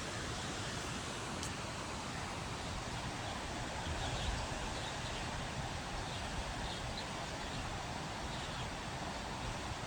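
Steady rushing of floodwater, with a few faint high chirps in the middle.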